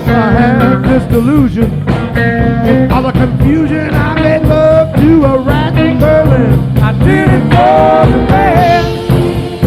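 Live blues-rock band playing: a lead line that bends and wavers in pitch over bass and a steady drum beat, heard through a direct soundboard feed.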